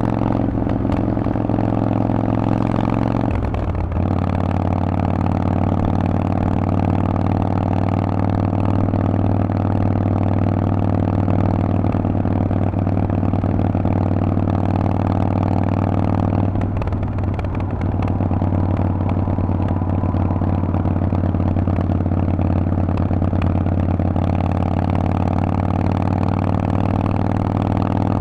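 Harley-Davidson Forty-Eight's 1200 cc air-cooled V-twin through a loud Vance & Hines exhaust, running steadily on the move. The engine note breaks briefly about four seconds in and again around seventeen seconds in.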